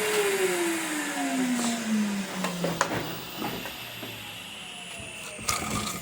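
Henry vacuum cleaner's motor being switched off and winding down, its hum falling steadily in pitch over about three seconds as the whine fades. Clicks and knocks of the machine being handled follow, one sharper knock near the end.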